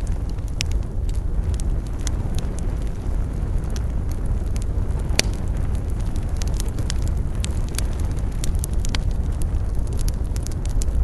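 Campfire burning with a steady low rumble and frequent sharp crackles and pops, one louder pop about five seconds in.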